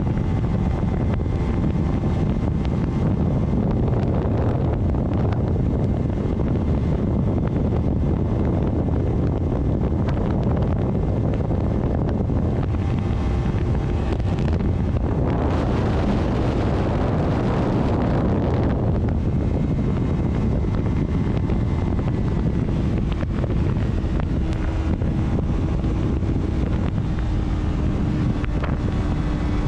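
Vehicle travelling on a rainy road: steady road and wind noise, with a louder hiss for about three seconds around the middle and a faint steady engine tone in the last few seconds.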